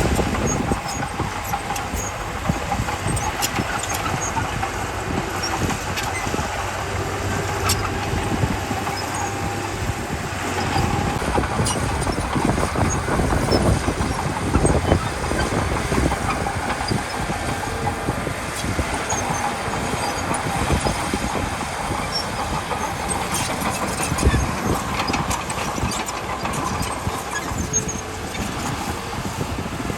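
Heavy diesel earthmoving machinery running steadily, with scattered clanks and knocks throughout.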